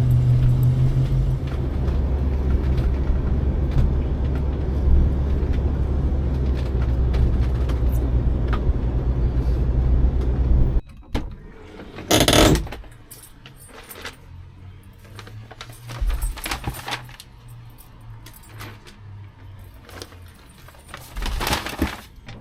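Steady low rumble of a van driving for about the first half, cutting off abruptly. Then a quieter stretch broken by a loud rustling clatter and scattered clicks and jingling, like keys and things being handled.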